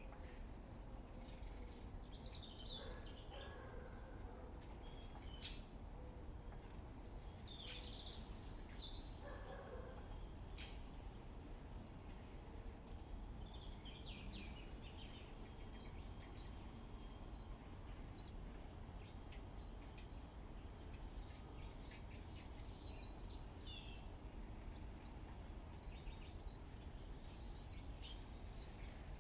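Small garden birds chirping and calling now and then, short high chirps scattered all through, over a steady low background rumble.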